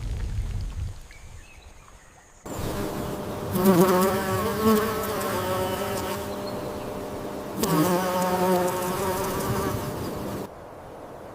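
A flying insect buzzing: a steady, slightly wavering drone. It starts abruptly a couple of seconds in and cuts off shortly before the end.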